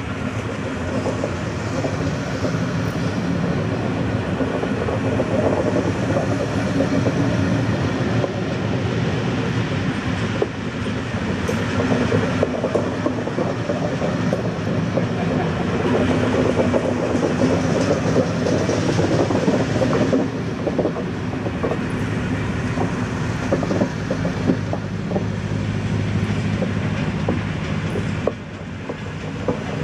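Passenger coaches of a passing train rolling by close at hand: a steady rumble of wheels on rail, with irregular clatter and knocks as the wheels cross the rail joints.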